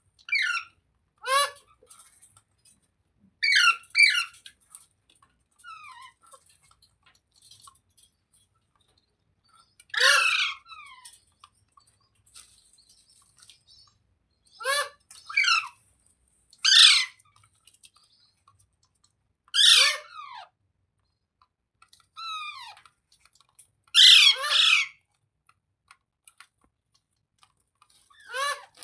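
A pet parrot calling: short bursts of sharp, quickly repeated chirping notes every few seconds, with the loudest burst near the end.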